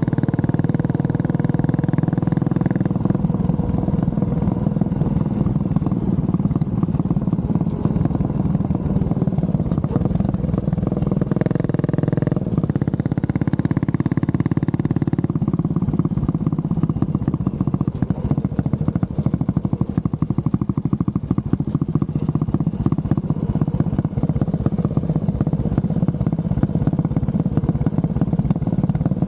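Honda CB400SS's air-cooled single-cylinder engine running steadily while the bike is ridden, its note changing about three seconds in and again around twelve seconds.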